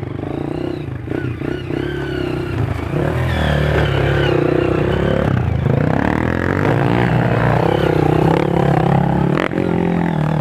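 Several trail motorcycle engines running and revving together, their pitches rising and falling over one another, louder from about three seconds in.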